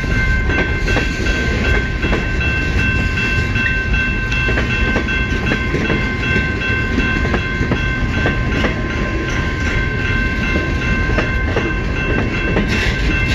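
CN freight train's cars rolling slowly past: a steady low rumble with irregular clicks of wheels over the rail joints and a steady high-pitched tone over it.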